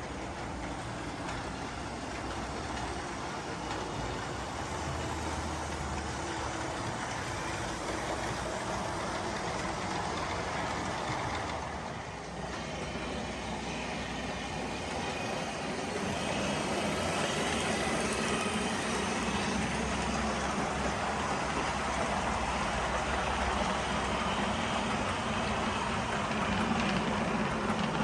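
O scale model train running on the layout: a steady mechanical rumble with a low hum, growing louder a little past halfway.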